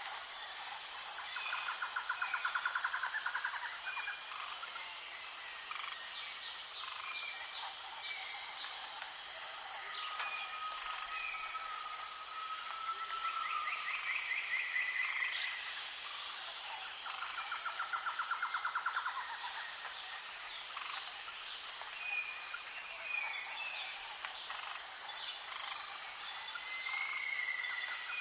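Wild birds calling over a steady, high-pitched insect chorus: fast rattling trills a few times, one long whistled note near the middle, and scattered short chirps.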